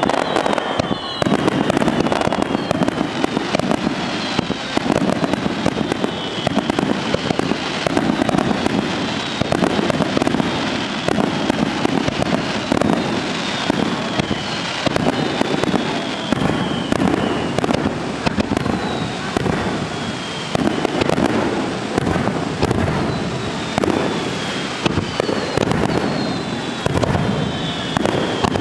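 Aerial fireworks display: a dense, continuous run of bursts and reports, with a high whistle falling in pitch every couple of seconds.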